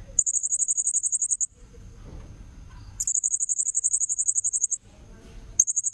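Blue-crowned hanging parrot (serindit) lure call: three shrill, high, rapidly pulsed trills. The first two last more than a second each and the third is short near the end. A faint steady high tone sounds between them.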